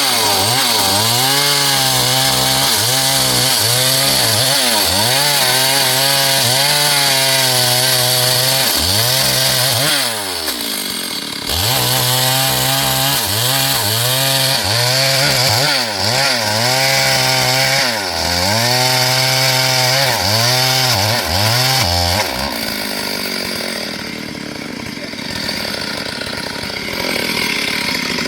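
Stihl MS 382 two-stroke chainsaw running hard through a dry log, its pitch sagging and climbing back again and again as the chain loads up in the cut. About ten seconds in it drops off throttle briefly and then revs back into the cut. For the last several seconds it is quieter.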